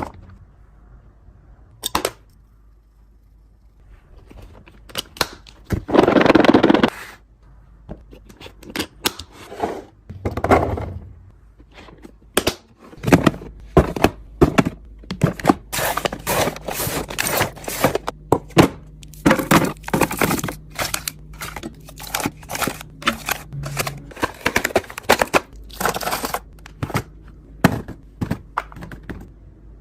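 Plastic containers, jars and food packages being handled and set down while a fridge is restocked: a run of sharp clacks, taps and thunks that comes thicker in the second half, with a swish about a second long at around six seconds in.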